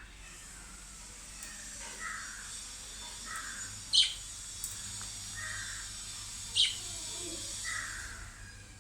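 Pet lovebirds chirping: short chirps every second or two, with two loud, high-pitched chirps about four and six and a half seconds in.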